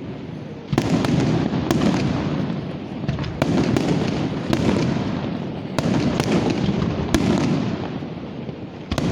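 Fireworks exploding overhead: about seven loud bangs at irregular intervals of roughly a second or so, each followed by a long rumbling echo, with crackling in between.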